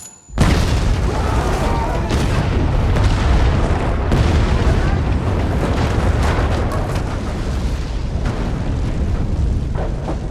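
A sudden loud explosion going off just after a moment of silence, followed by a long, dense rumble of blast noise that holds through to the end.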